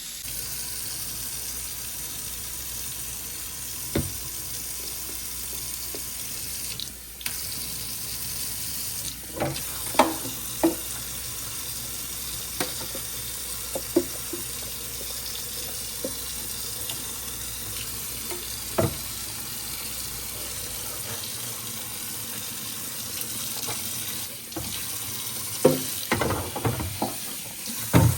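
Water running steadily from a tap into a kitchen sink, with scattered knocks and clatters of things being handled in it, coming thicker near the end.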